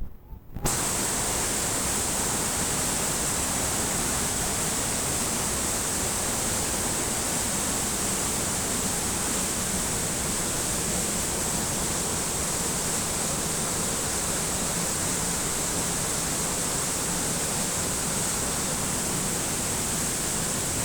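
Rushing water running steadily, starting abruptly about half a second in and holding an even level throughout.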